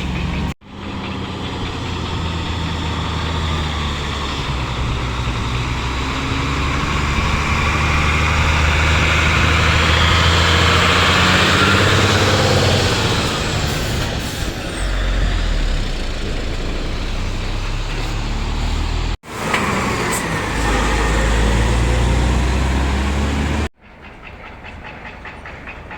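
Heavy truck engines running and vehicles passing, in several clips cut together. The sound swells to its loudest around ten seconds in, breaks off abruptly at each cut, and is quieter after the last one.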